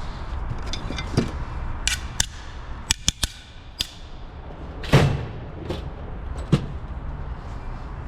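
Irregular sharp metal knocks and clanks, about ten strikes spread over several seconds with the loudest about five seconds in, from a pickup's bedside panel being struck and pried loose from the body. A steady low hum runs underneath.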